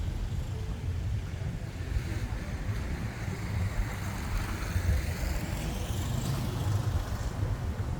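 Road traffic on a busy street, with a constant low rumble and one vehicle passing close by, its sound swelling and fading about halfway through.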